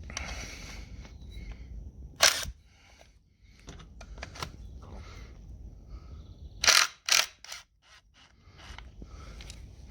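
Metal tools being handled on a tractor engine: a sharp metallic click about two seconds in and a quick group of three near seven seconds, with quieter rustling and scraping in between.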